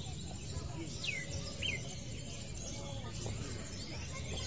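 Long-tailed shrike calling: two short, sharp downward-sweeping whistles about a second in, with fainter chirps, over a steady low background rumble.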